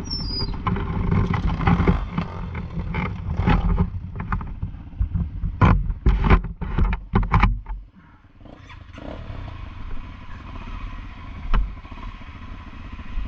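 Enduro motorcycle engine revving hard and unevenly, with a run of sharp clattering knocks. About eight seconds in it drops away, then settles into a quieter, steadier running.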